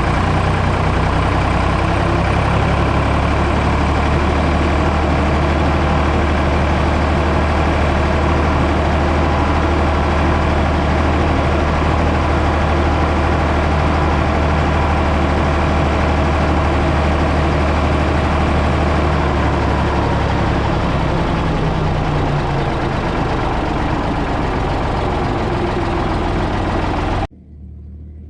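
Ford 555 backhoe loader's engine running steadily, its pitch sagging briefly about three quarters of the way through. The sound cuts off suddenly near the end.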